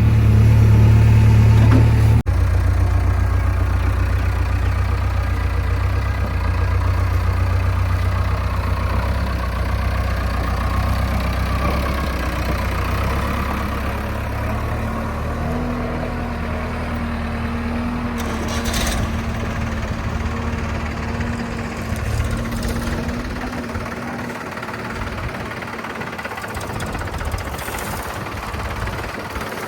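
Diesel engine of heavy machinery running steadily at low revs, with a sudden break about two seconds in before the running carries on.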